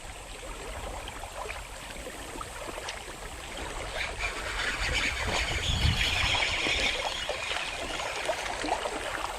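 Creek water running and trickling steadily, swelling for a few seconds in the middle, with a dull low thump about six seconds in.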